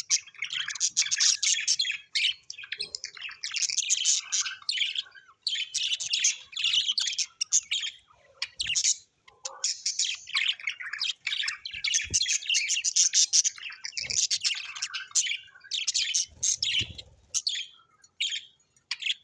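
Parrots chattering and chirping: dense, high-pitched warbling in bursts of a second or two, with short pauses between them.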